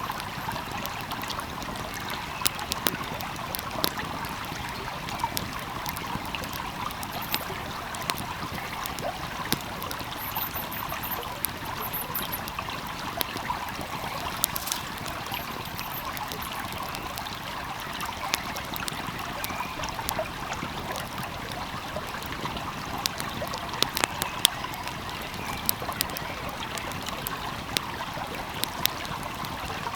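A stream flowing steadily, with a wood fire crackling over it: irregular sharp pops and snaps throughout, a cluster of louder ones about three-quarters of the way through.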